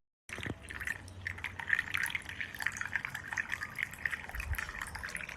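Liquid sound: many small, irregular drips and splashes over a hiss, starting just after a brief silence.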